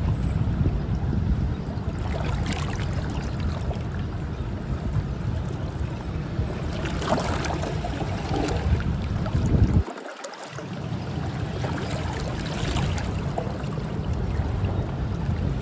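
Wind buffeting the microphone with a heavy low rumble over the rush of moving water. The rumble cuts out for a moment about ten seconds in, then returns.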